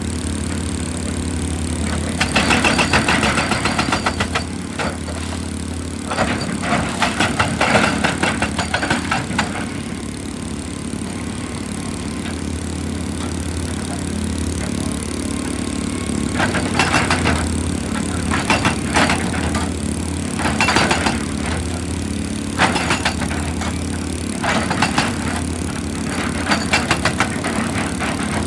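A heavy diesel excavator engine runs steadily, with repeated bursts of rattling and crunching from rock being worked by the machine, each lasting one to three seconds.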